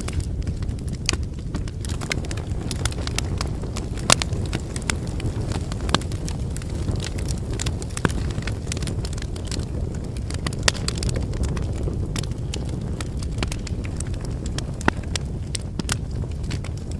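Wood fire burning: a steady low rush of flame with irregular sharp crackles and pops from the burning firewood, a few louder pops scattered through.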